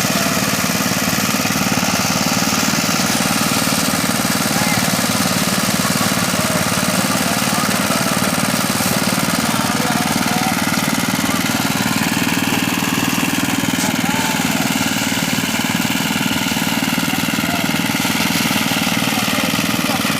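Engine-driven mini rice thresher running steadily at a constant speed.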